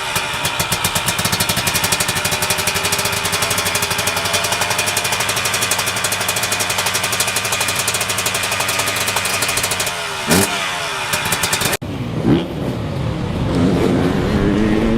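Dirt bike engine running hard at steady high revs, with a brief break in the note about ten seconds in. It cuts off abruptly near the end, and an engine revving up and down follows.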